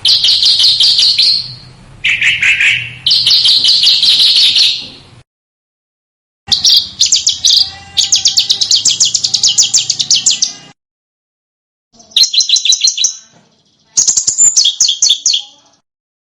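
A small songbird singing sharp, high-pitched trills and rapid rattling phrases, each one to four seconds long, with gaps of dead silence between them. The longest, a fast rattle of many notes, comes about halfway through.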